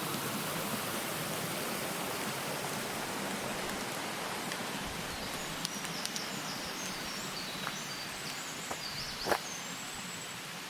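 Steady rush of a waterfall, with a few short high chirps of a bird in the second half and one sharp click near the end.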